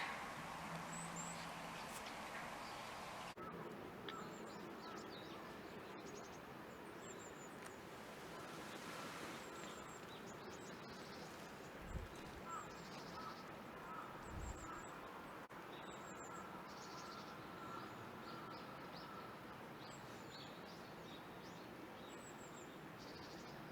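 Faint, high, thin chirps from small birds, repeated every second or two over a steady outdoor background hiss. There are two soft low thumps about halfway through.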